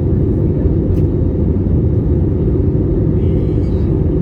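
Steady, loud low rumble of a Boeing 787-8 jet airliner's engine and airflow noise.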